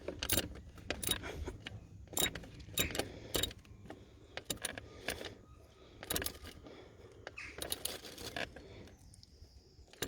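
Irregular metallic clicks and clinks of a hand tool working a bolt, as the last bolt of a replacement thermostat housing is done up.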